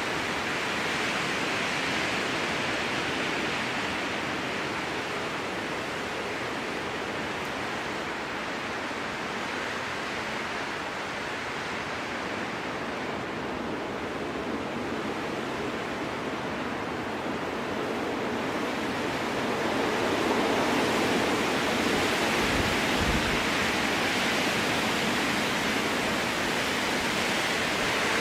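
Strong wind rushing through spruce trees, a steady rushing noise that swells and eases slowly and grows a little louder after about two-thirds of the way through.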